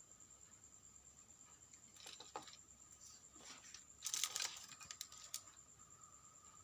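A few light clicks and rustles of small parts being handled, loudest in a short cluster about four seconds in, over a steady high-pitched insect drone.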